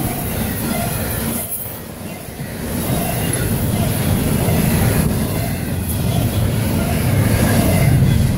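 Double-stack intermodal freight train passing close by: the steady rumble and rattle of its steel wheels rolling over the rails as the stack cars go by, dipping briefly about two seconds in.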